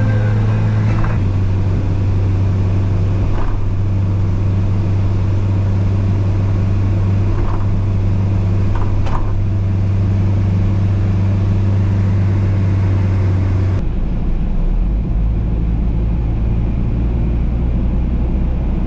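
Mazda Bongo Brawny fire truck's engine droning steadily as it drives, heard from inside the cab. About fourteen seconds in the drone drops suddenly to a lower pitch as the engine speed falls.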